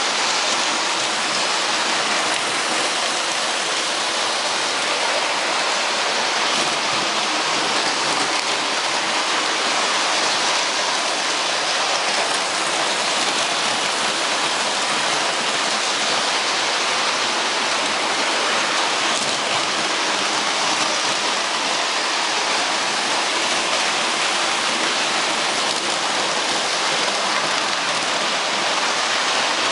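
A steady, even rushing hiss with no rhythm, pitch or distinct impacts, like rain or rushing water.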